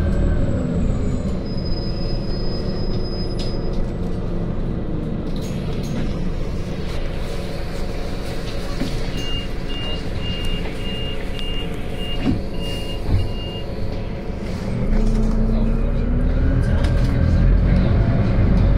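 Scania CN280UB city bus's compressed-natural-gas engine slowing down, running low and steady, then speeding up again as the bus pulls away. In the middle comes a row of about eight short, high, evenly spaced beeps.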